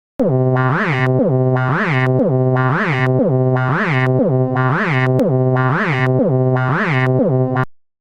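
A single held synthesizer note with its filter sweeping up and down about once a second, seven sweeps, cut off abruptly near the end.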